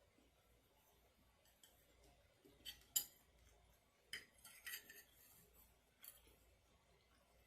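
A metal spoon clinking and scraping against a takeout food container, a few sharp clinks with the loudest about three seconds in and a quick cluster a second later.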